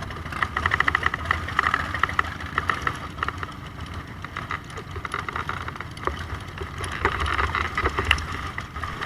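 Motorcycle engine running with a steady low rumble, and a rapid, even ticking of about ten beats a second for the first few seconds.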